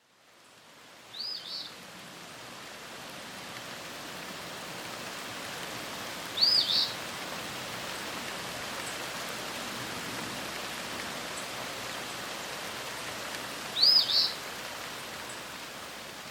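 A bird calling three times, each call a quick pair of arching high notes, over a steady rain-like hiss that fades in at the start.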